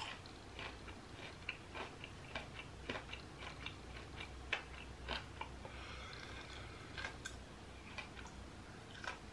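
Faint, irregular clicking of a person chewing a piece of deep-fried sea anemone with the mouth closed.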